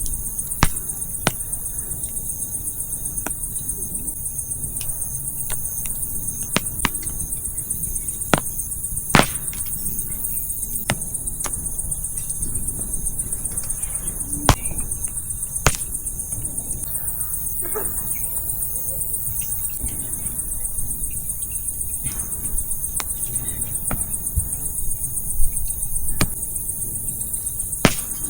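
Wood fire crackling, with about a dozen sharp, irregular pops of burning firewood, over the steady high-pitched chirring of crickets.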